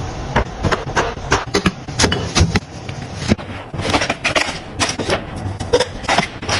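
Household items being handled and set down during kitchen restocking: an irregular run of sharp clicks, taps and knocks, with short rustles in between.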